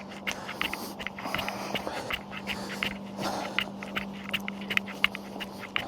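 Jogging footsteps, about three a second, picked up by a body-worn wireless lavalier mic, over a steady low hum from nearby machinery.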